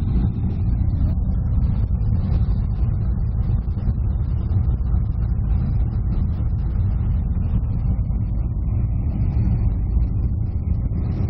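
Mercury outboard motor running steadily on a small boat under way, a continuous low rumble without change in pitch.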